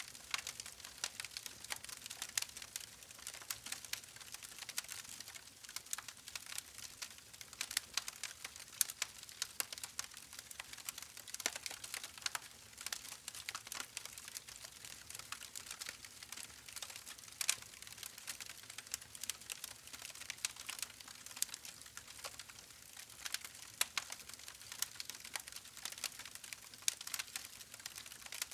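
Wood fire crackling in a fireplace: a dense, irregular run of small snaps and pops over a soft hiss, with an occasional louder pop.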